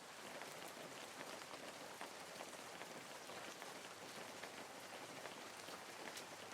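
Steady hiss of water with fine pattering crackles, an unbroken sound without swells.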